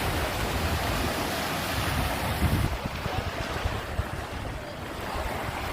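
Sea waves washing on the shore of a small cove, with wind buffeting the microphone in low gusts. The high hiss of the surf drops away a little under halfway through.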